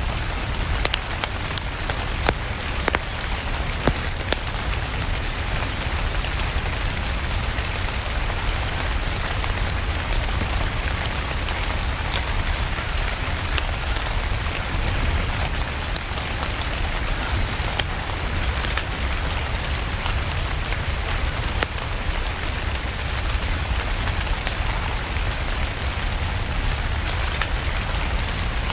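Steady rain mixed with a crackling wood fire: an even hiss of rain over a low rumble, with frequent sharp crackles and pops.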